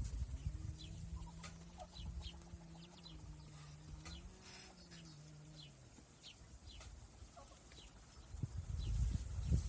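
Faint chickens: short, high, falling peeps repeating through, over a low steady drone that stops about six seconds in.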